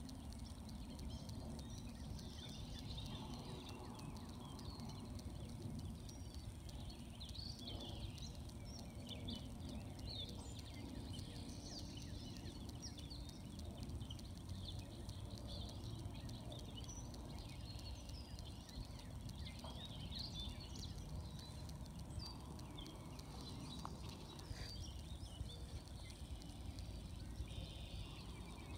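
Small birds chirping and calling many times over, short high notes scattered throughout, above a steady low outdoor rumble.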